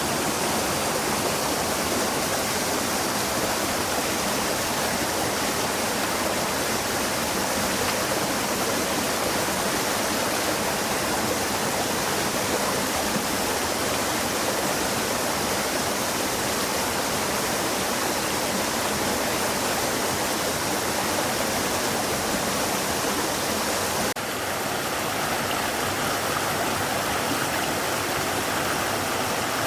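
Stream water flowing steadily, an even rushing sound that shifts slightly and drops a little in level near the end.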